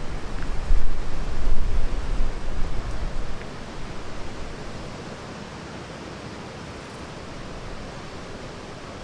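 Rain and wind in the forest, a steady hiss, with gusts buffeting the microphone in a low rumble for the first three seconds or so before settling to a quieter even hiss.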